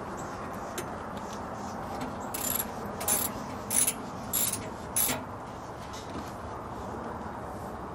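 Hand tools working on a trailer's landing-gear bolt: five short metallic clicking bursts, roughly half a second apart, over a steady background hum.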